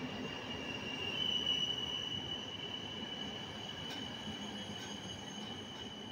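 ÖBB passenger coaches rolling past with a high, steady squeal, along with a couple of faint clicks about four and five seconds in.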